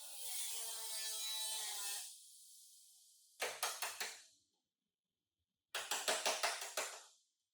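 A short pitched hum with hiss, then two rapid runs of sharp knocks, about six a second: first about five strikes, then about eight.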